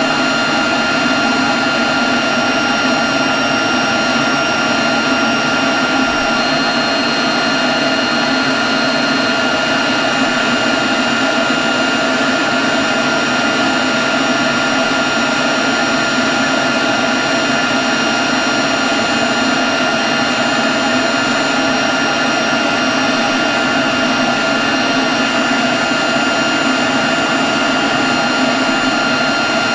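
Leaf blower running steadily at one constant speed: a dense rush of air with a high whine held on a few fixed pitches.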